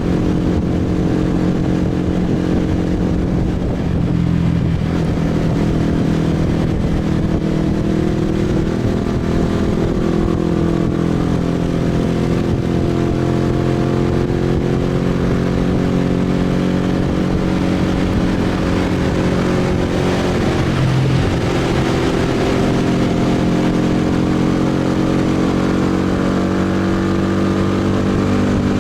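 Motorbike engine running while riding, its pitch sinking and rising again a few times as the speed changes.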